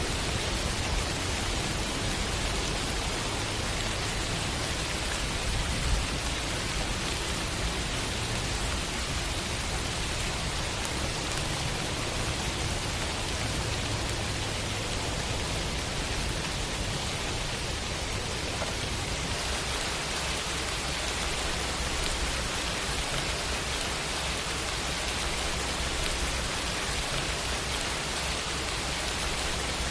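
Steady rain falling, a dense, even hiss, with a slight shift in its texture about two-thirds of the way through.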